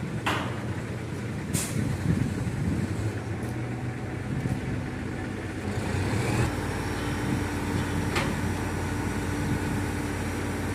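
Heavy diesel machinery running steadily, broken by short, sharp hisses of released air. About six seconds in, a steadier, even hum sets in.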